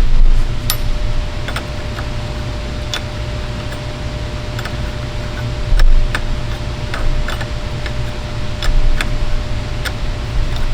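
Irregular sharp clicks and taps over a steady low hum, with a few dull low thumps.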